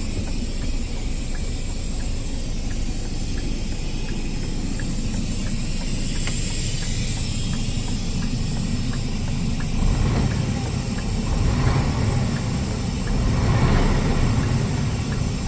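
Scania R480 truck's six-cylinder diesel engine idling with a steady low rumble and a faint regular ticking. The sound swells briefly twice in the second half.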